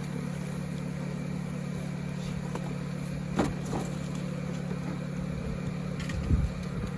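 A steady low hum like an engine or motor idling, with a couple of brief knocks, one about three and a half seconds in and one near the end.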